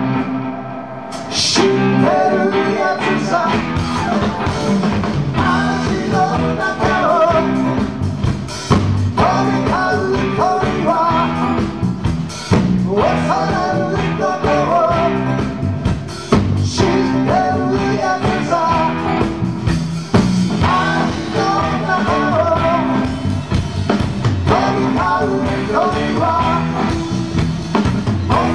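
A live rock band playing a rock-and-roll number, with electric guitar, drum kit and a singing voice.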